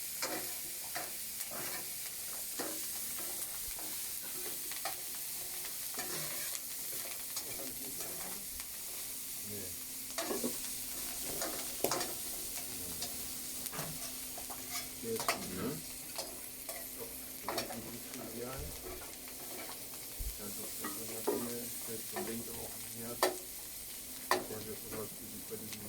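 Food frying in a pan over a campfire: a steady high sizzle, with a spoon scraping and knocking against the pan as it is stirred, the knocks coming more often in the second half.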